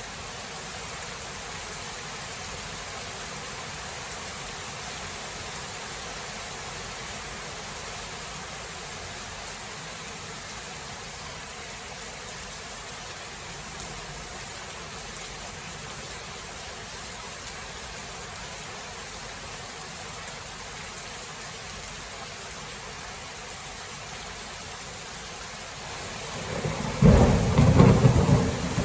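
Steady rain falling as an even hiss, then a sudden loud thunderclap near the end that rumbles on.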